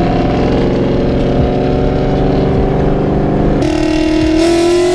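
A loud car engine with an aftermarket exhaust runs steadily. From about three and a half seconds in, a deeper engine note slowly climbs, and from a little later a rushing hiss joins it.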